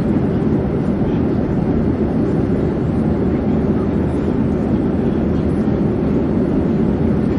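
Airplane in flight: a steady, even low drone of engines and rushing air, with no change in level.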